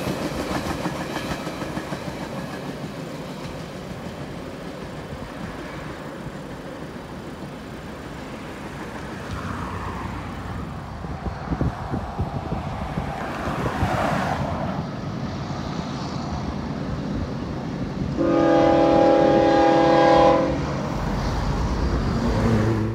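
Wheels of a double-stack container train clattering past, fading away as the last cars go by. Later a freight locomotive's five-chime Nathan K5HL horn sounds one blast of about two seconds, and the low rumble of approaching diesel locomotives rises near the end.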